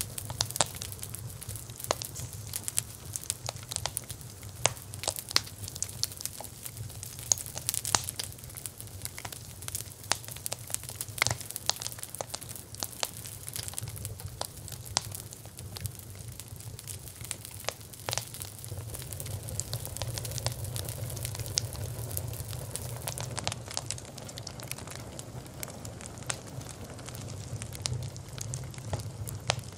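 Campfire crackling: frequent, irregular sharp pops over a steady low rumble.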